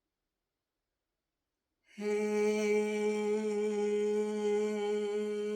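A woman's voice sounding the Liu Zi Jue healing sound "hey" as one long breath out, held steady on a single pitch: the triple-burner sound for pushing out stress. It starts about two seconds in, after silence.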